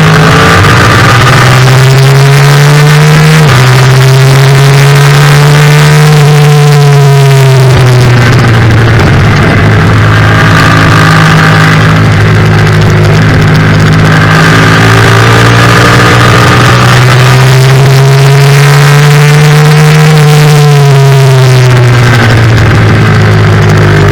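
Yamaha FZ-07's parallel-twin engine being ridden hard: loud, its pitch climbing, dropping sharply at a gear change about three and a half seconds in, then rising and falling twice as it accelerates and slows.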